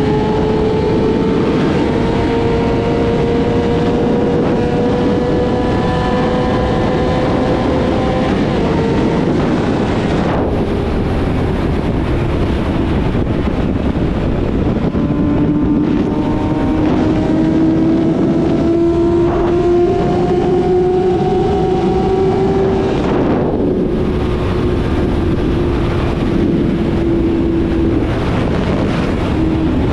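Yamaha YZF-R6 inline-four with a full-system exhaust running steadily on the road, its pitch slowly climbing, dropping about eight to ten seconds in, then climbing gently again. Wind rushes over the microphone throughout.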